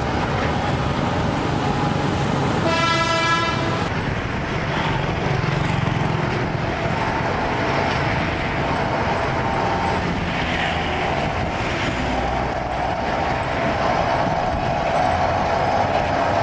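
Diesel railbus running past beside road traffic, a steady mix of train and street noise. A horn sounds once for about a second, about three seconds in.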